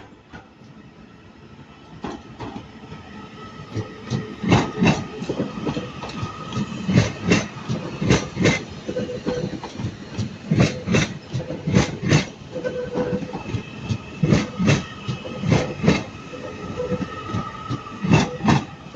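Class 331 electric multiple unit pulling out, its wheels clicking over rail joints and pointwork in paired knocks about a second apart, with a faint steady whine.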